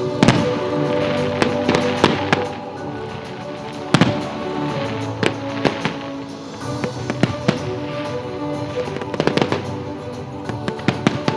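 Fireworks salute bursting: a string of sharp bangs and crackles at irregular intervals, the loudest near the start and about four seconds in, over steady music.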